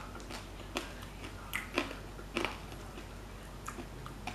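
Close-miked chewing and mouth smacking of crispy fried gourami, with irregular short crunches and clicks about every half second.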